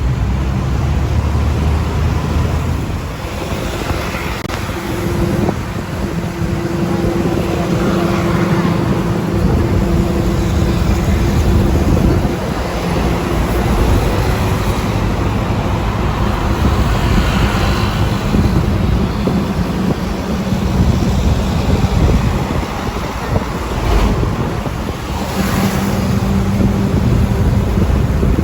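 A motor vehicle running steadily: a continuous low engine rumble with a faint hum and some wind noise, with no clear events standing out.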